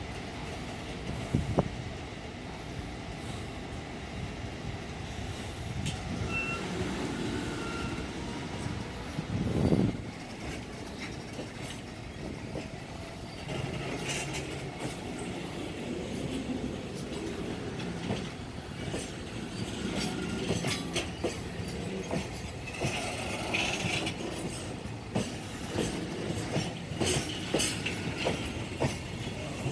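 Wagons of a JR Freight container train rolling past: a steady rumble of steel wheels on the rails, with a brief faint wheel squeal about six seconds in and sharp clacks over the rail joints, more frequent from about two-thirds through.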